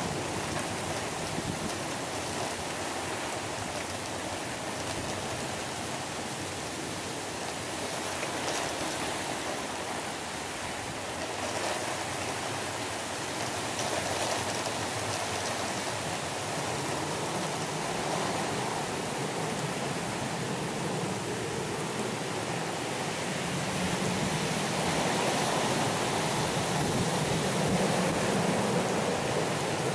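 Heavy rain falling in gusty wind: a steady hiss of rain that swells louder over the last several seconds as the gusts pick up.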